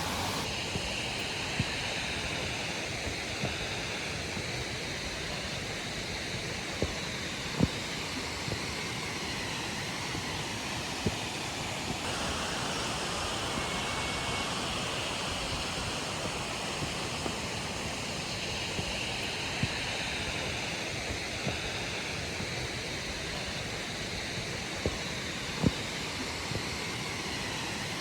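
Steady rush of water falling over a waterfall, with a few brief sharp clicks scattered through it.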